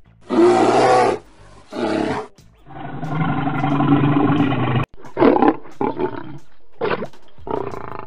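Brown bear roaring: two short roars, then one long roar of about two seconds. A little before five seconds in, the sound cuts abruptly to a lion giving four short roars.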